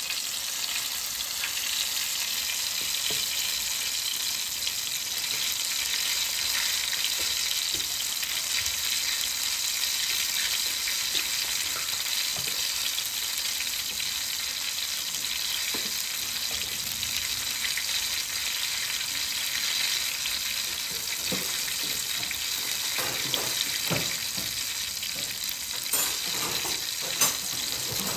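Eggplant omelette frying in hot oil in a pan: a steady sizzle, with a few light knocks and scrapes near the end.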